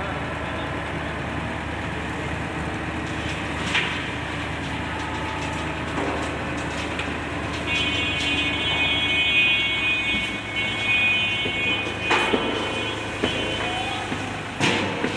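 Dump truck's engine running steadily. A high, steady whine joins about eight seconds in and stops near fourteen seconds, and a few sharp knocks come near the end.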